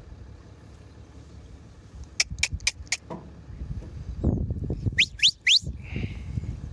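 Short high chirps from a small bird: four quick ones about two seconds in, then three louder rising ones about five seconds in, over a low rumble of wind on the microphone.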